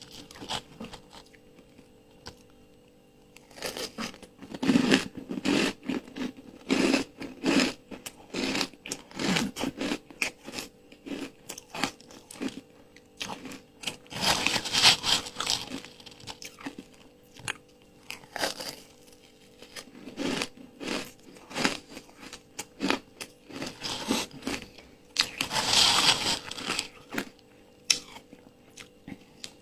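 Ice coated in matcha powder being bitten and chewed close to the microphone: irregular bouts of crunchy chewing, with two louder, crisper crunches, one about halfway through and one near the end.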